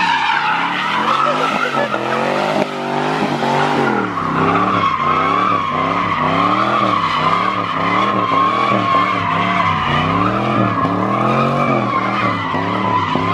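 A car doing donuts, its tyres squealing steadily while the engine revs up and down about once a second.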